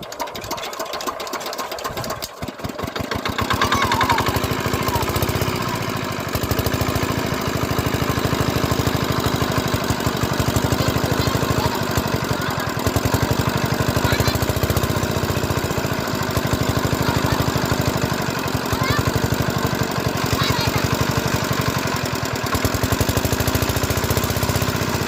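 5 hp single-cylinder diesel water-pump engine catching and picking up speed over the first few seconds, then running steadily with a fast, even knock of firing strokes.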